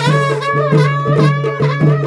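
Choliya folk band music. Drums beat about twice a second while a reed wind instrument plays a wavering, ornamented melody over a steady drone.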